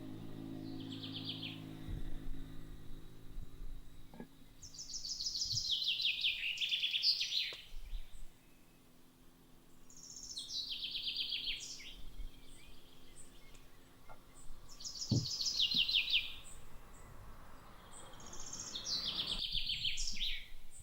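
A songbird singing the same rapid, descending run of notes about every four to five seconds, four full phrases in all.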